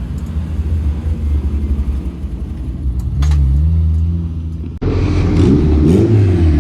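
Car engine rumbling low and steady. After a sudden cut about five seconds in, an engine runs louder, its pitch rising and falling as it revs.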